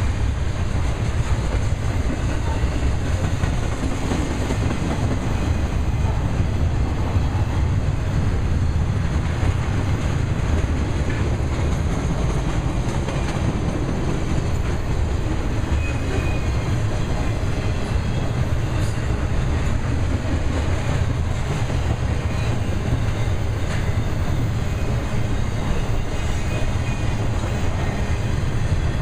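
A BNSF intermodal freight train's flatcars loaded with highway trailers rolling past, steel wheels on rail making a steady, unbroken low rumble.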